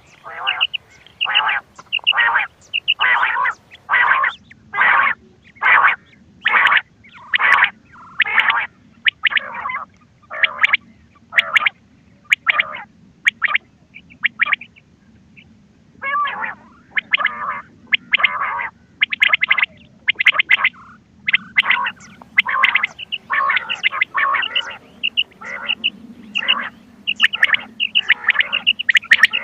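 Quail calls from a hunting lure recording: a quick series of short, harsh calls, about one to two a second, with a pause of about two seconds near the middle. A faint steady low hum runs underneath.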